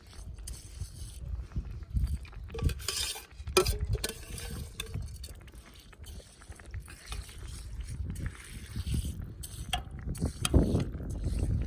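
Strong wind buffeting the microphone in gusts, with scattered clicks, knocks and scrapes.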